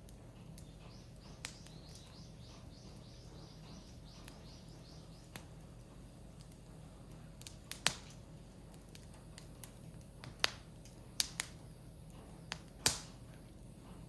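Wood fire crackling, with sharp irregular pops and snaps from the burning firewood; the loudest pops come about eight seconds in and near the end.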